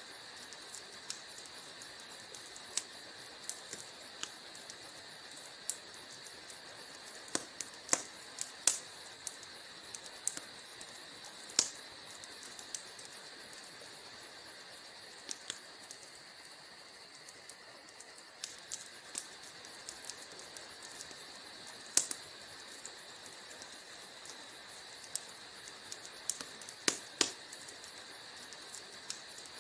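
Wood fire burning in a fireplace: a steady soft hiss with irregular sharp crackles and pops, a few louder snaps standing out among the small ones.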